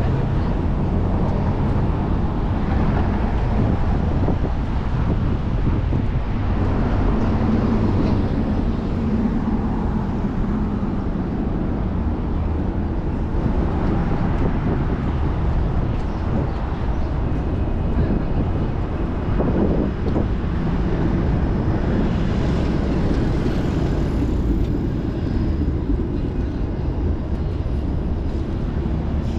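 Steady low rumble of city street traffic and road noise, heard from a moving bicycle.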